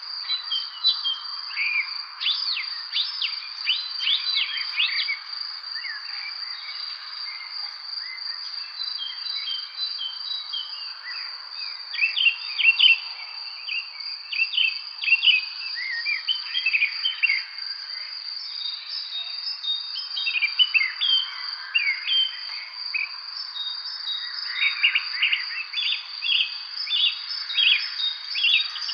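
Songbirds chirping in quick clusters of short notes over a steady, unbroken high insect trill, as in an evening spring chorus.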